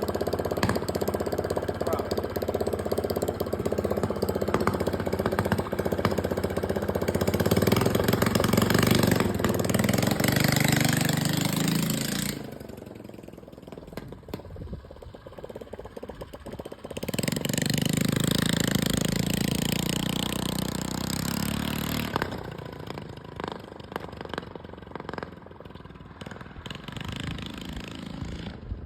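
Four-stroke mini bike engine running on a quick test run, revved up twice with a drop back to a lower, quieter run between and after; the valves are sound.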